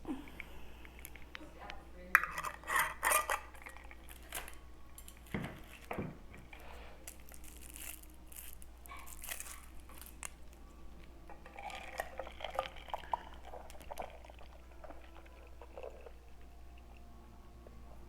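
Tableware handled at a laden table: scattered clinks and knocks of dishes, glassware and cutlery, with a cluster of sharp clinks a couple of seconds in.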